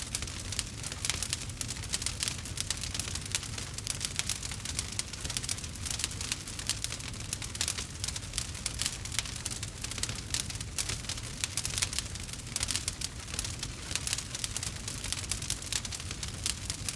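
Wood fire crackling in a fireplace: a constant rush of small irregular pops and snaps over a steady low rumble.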